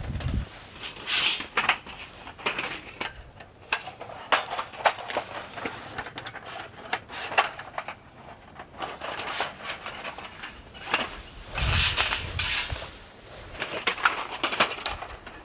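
Metal camp gear being handled: scattered light clinks and rattles, with brief rustling about a second in and again near the end.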